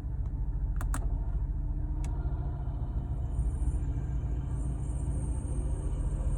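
Porsche 718 Boxster S turbocharged flat-four idling as a steady low rumble, with a thin high-pitched air-conditioning hiss coming in about three seconds in. The hiss appears only with the AC on and the engine running, and is the fault the owner is chasing, along with weak cooling from the right-hand vents. A couple of sharp clicks come about a second in and another just after two seconds.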